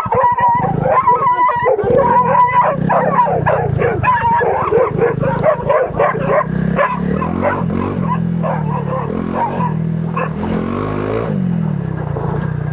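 Dogs barking and yapping rapidly, several barks a second, then more sparsely after about seven seconds. Under them, a Honda CRF300 Rally's single-cylinder engine runs at low revs, its pitch rising and falling in the second half.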